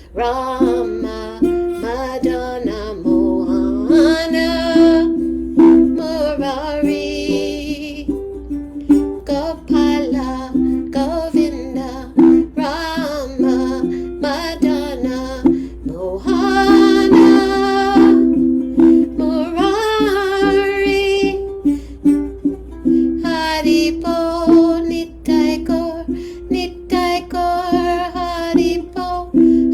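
Kirtan: devotional chanting sung over steadily strummed chords on a plucked stringed instrument.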